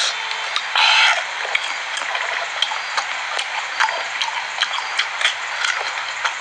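Close-up mouth sounds of someone chewing mango: irregular wet clicks and smacks over a steady hiss, with a short louder burst about a second in.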